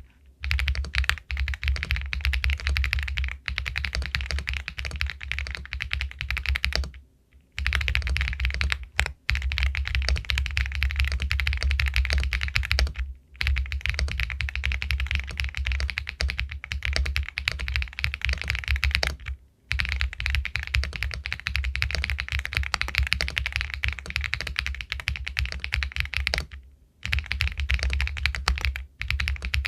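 Fast, continuous typing on an Epomaker Galaxy 80 Pro all-aluminium mechanical keyboard with White Jade linear switches, a pebble-like clacking of keystrokes. The typing stops briefly four times, about 7, 13, 19 and 27 seconds in.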